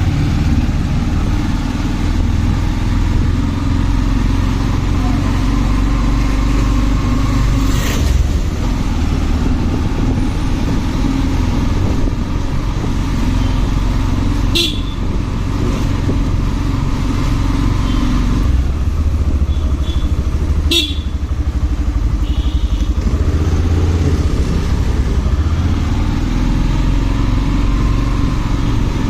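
Motorcycle engine running steadily on the move, with road and wind noise, and a few short horn toots from traffic.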